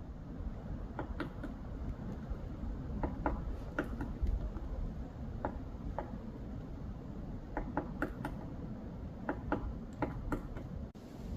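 Woodpecker pecking at wood: sharp irregular taps, singly or in quick pairs, with pauses of a second or more between them.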